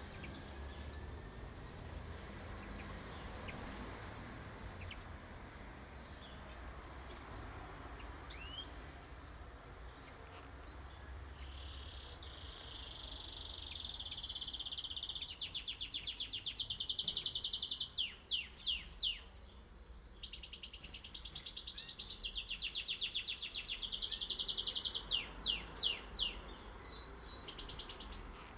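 A canary singing: a few faint chirps, then a long song of fast rolling trills that grows louder, broken twice by runs of sharp sweeping notes.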